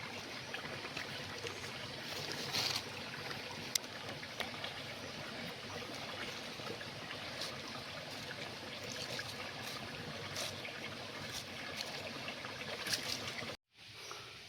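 Water running in a stream: an even rushing with a few small splashes and knocks. It cuts off abruptly near the end.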